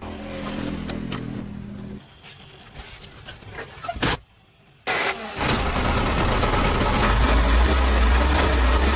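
A heavy engine: a motor runs for the first couple of seconds, there is a brief silence about four seconds in, and then the engine comes in loud with a deep low rumble that builds and holds.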